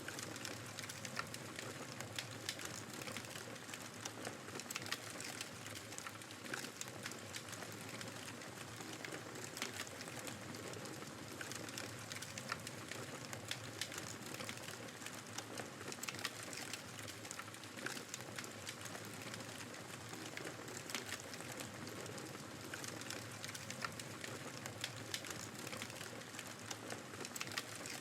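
Wood fire crackling in a fireplace, with frequent sharp pops and snaps, over a steady rushing noise of snowstorm wind.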